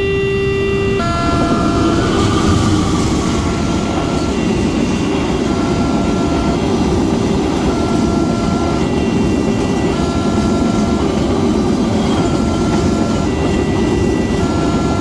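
Passenger train running past a level crossing: a steady rumble and rattle of the coaches on the rails begins about a second in. Under it the crossing's WANTECH electronic alarm keeps sounding in two alternating tones, a little hoarse.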